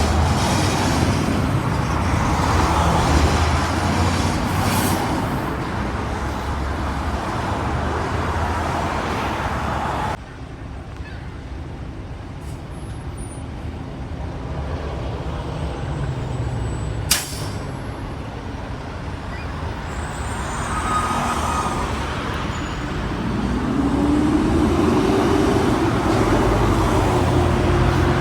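Road traffic with trucks and buses passing, a steady mix of engine and tyre noise. About ten seconds in the sound drops abruptly to a quieter level, a single sharp click comes a few seconds later, and near the end an engine note rises in pitch.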